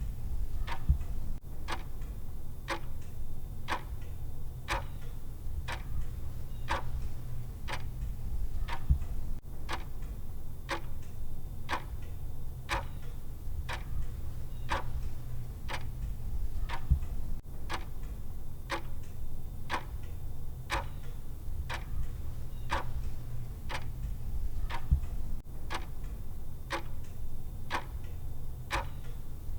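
Clock-style tick sound effect of a countdown timer, one tick a second, steady and even, over a low steady hum.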